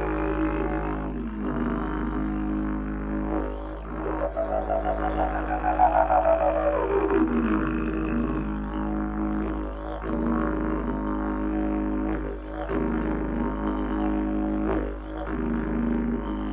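Didgeridoo playing a continuous low drone with shifting overtones. Around the middle, a bright overtone sweep falls steadily in pitch, and the drone briefly dips every second or two.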